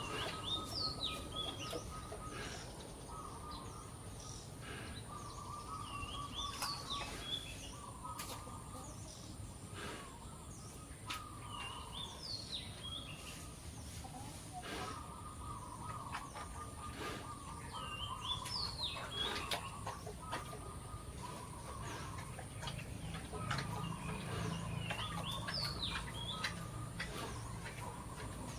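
Birds calling outdoors: one bird repeats a short, high, zig-zagging phrase about every six seconds over lower, steadier chattering calls, with scattered light clicks.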